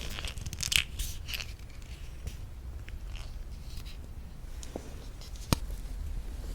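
Close-miked mouth sounds of eating thick Greek yogurt with honey: soft sticky, wet smacking in the first second and a half, then scattered faint ticks, with a single sharp click about five and a half seconds in.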